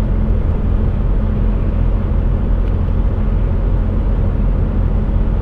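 Steady low rumble of a heavily loaded HGV's diesel engine and road noise, heard inside the cab.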